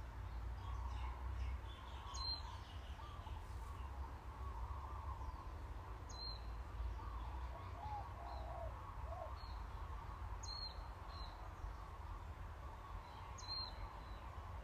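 Birds chirping faintly, with a short high chirp about every three to four seconds over softer twittering, above a low steady rumble.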